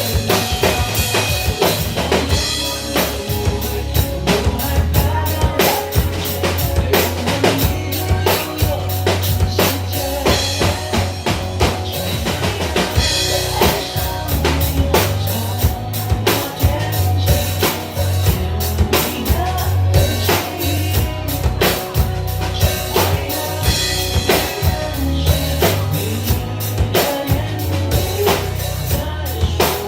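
Drum kit playing a steady pop beat with kick, snare and rimshots over a band backing with bass.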